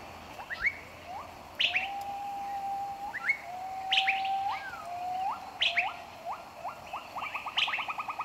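Birds calling: sharp falling chirps, two long level whistles that each end in an upward flick, and toward the end a fast trill of about ten notes a second.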